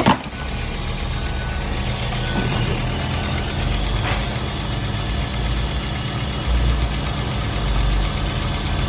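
2008 Volkswagen Beetle's 2.5-litre five-cylinder engine idling steadily, after a single sharp clunk right at the start.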